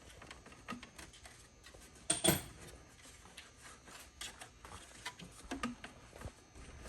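Scattered light clicks and knocks of tools and parts being handled, with one sharp metallic clank, struck twice in quick succession with a short ring, about two seconds in.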